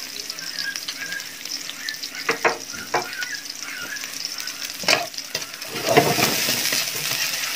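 Sliced onion and ginger sizzling in hot oil in a metal wok as they brown, with a metal ladle stirring and knocking against the pan a few times. The stirring and scraping grow louder near the end.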